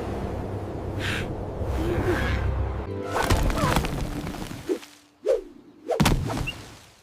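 Cartoon crash sound effects over music: a dense rumbling whoosh for about three seconds, then three separate thuds a little over half a second apart.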